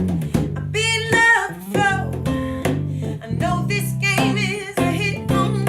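Live acoustic-style band performance of a rock/soul song: strummed guitar with a lead vocalist singing with wide vibrato over it.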